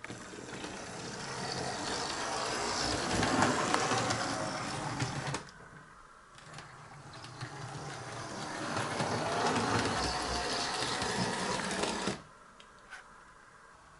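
00 gauge model locomotive whirring along the track on two runs, each growing louder and then cutting off suddenly about five seconds in and again about twelve seconds in, as the loco is halted at the end of its run by the layout's diode stops.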